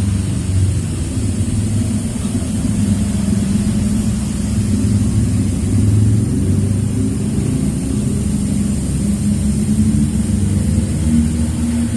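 Car engine running steadily with a low drone and small swells in level, most likely the Daihatsu Sirion's own engine.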